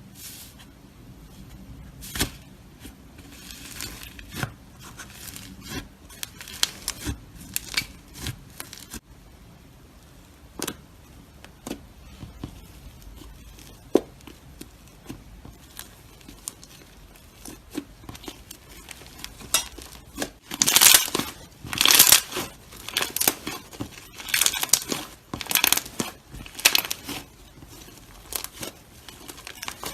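Slime being squeezed and worked by hand, giving crisp crackles, pops and crinkles. They come sparsely at first and get denser and louder about two-thirds of the way in.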